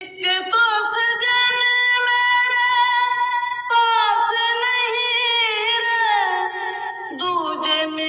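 A high female voice singing long, held notes, which step lower in pitch over the last couple of seconds.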